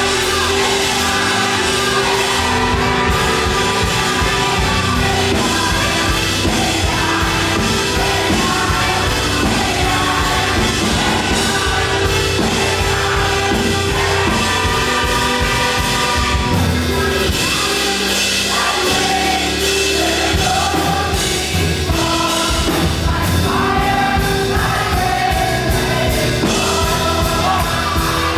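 Live up-tempo gospel praise music: a group of singers sings over a full band with drums and bass.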